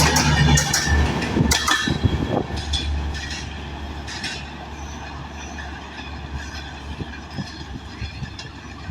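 Passenger train running past, its wheels clattering over rail joints. Loud for about the first two seconds, it then fades to a quieter steady rumble with occasional clicks as it moves away.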